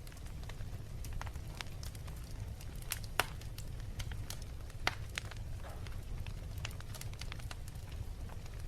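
Wood fire burning in a fireplace: a steady low rumble of flames with frequent irregular crackles and pops, the sharpest pops about three and five seconds in.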